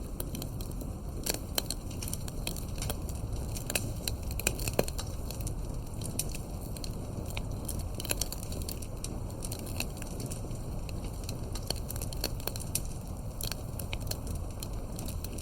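Campfire burning, with frequent irregular sharp crackles and pops from the firewood over a steady low rumble of the flames.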